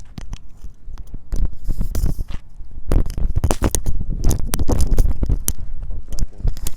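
Close rubbing and scraping noise with many irregular clicks and a heavy low rumble, busier from about three seconds in: something handled or rubbing right against the phone's microphone.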